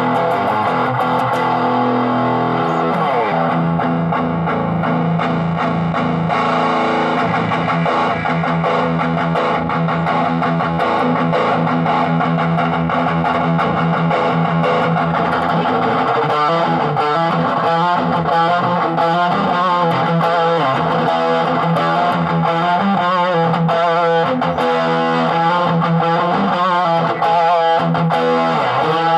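Electric guitar played through a clone of the ProCo RAT distortion pedal, giving a distorted tone. Long held chords ring for roughly the first half, then it moves to a quicker, choppier picked riff.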